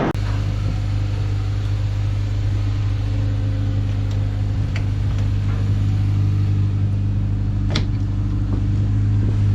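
Toyota Corolla engine idling steadily, with a single sharp click about eight seconds in.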